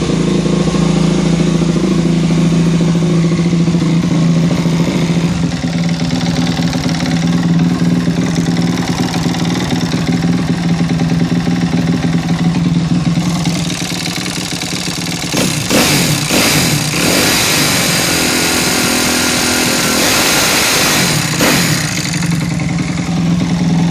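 Suzuki RM-Z motocross bike's single-cylinder four-stroke engine running, mostly at a steady idle, with a stretch of changing engine speed in the middle. The owner is presenting a suspicious noise from the engine.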